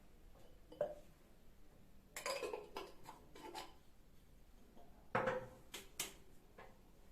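Dishes and utensils clinking and clattering in a handful of short knocks, with a busy cluster about two seconds in and two sharp clanks past the five-second mark.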